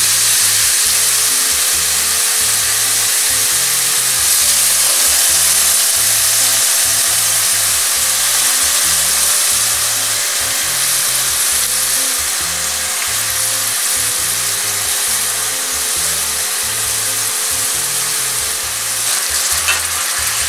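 Onions and oil sizzling in a stainless steel skillet as wet, chile-marinated soy meat is scraped in from a metal bowl and stirred with a slotted spoon. There are a few sharp clicks of the spoon near the end.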